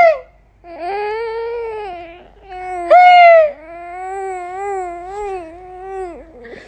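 A four-month-old baby crying: two long, wavering cries, with a short, louder, higher wail about three seconds in.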